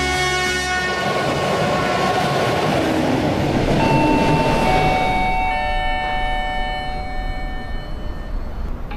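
SKM EN57AKM electric multiple unit rolling slowly into a platform, its wheels rumbling on the rails. From about four seconds in, several steady high squeals come in and die away near the end as the train brakes to a stop.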